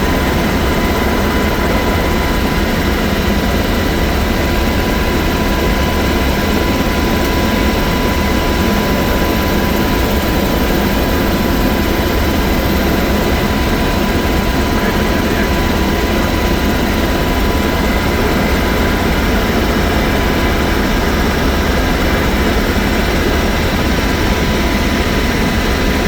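Steady, loud rumbling noise that holds even throughout, with faint steady tones above it.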